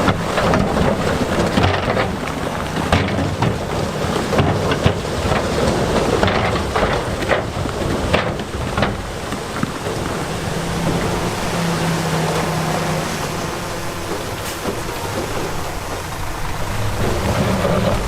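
Heavy diesel earthmoving machinery working, its engine a steady low drone under a dense rumble and many short knocks of big stones clattering as they are pushed or dumped.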